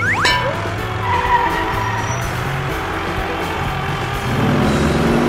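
Cartoon tractor engine sound effect over background music, with a quick rising glide at the very start and a swell building near the end.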